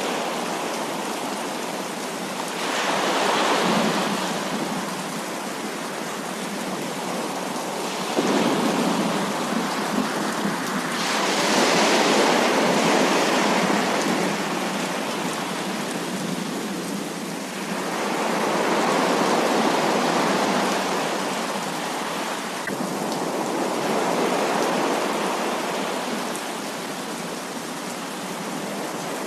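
Heavy rain: a dense, steady hiss of falling rain that swells louder in waves several times, rising suddenly about eight seconds in.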